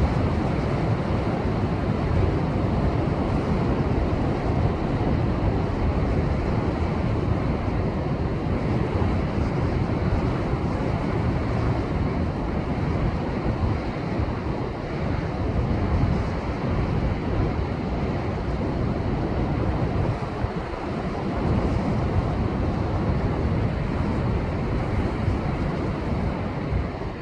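Rough post-typhoon surf breaking against a rocky shore: a continuous, heavy rush of waves that eases briefly about twenty seconds in.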